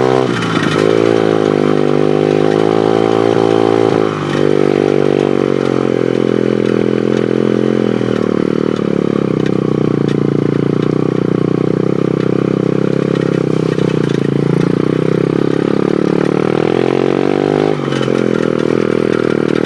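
Pit bike's small single-cylinder engine running under way, its note dipping and climbing back a few times as the throttle is eased and opened again.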